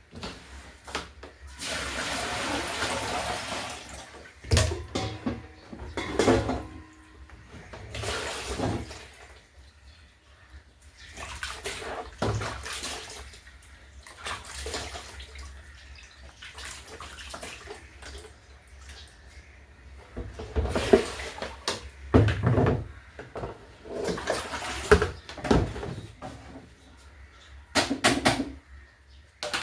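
Water splashing and pouring in a basin, in irregular spells, with knocks and clatter of things being handled.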